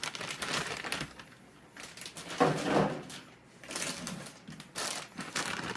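Plastic kit parts bags rustling and crinkling as they are handled, with irregular small clicks and knocks.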